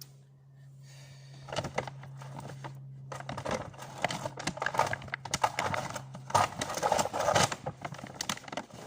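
Rustling and clattering as things are handled and moved, a dense run of irregular clicks and knocks starting about a second and a half in, over a steady low hum that drops away near the end.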